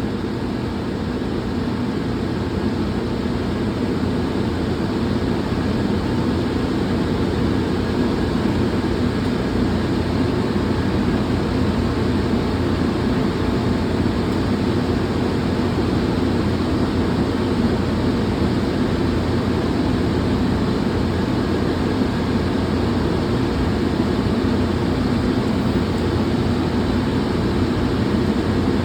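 Steady, unchanging low roar of running shop machinery or moving air, with no knocks or changes.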